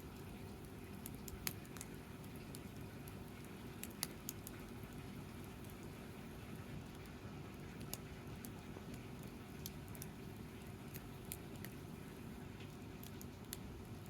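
Wood campfire crackling: irregular sharp pops and snaps, the loudest near the start and about four seconds in, over a low steady rush.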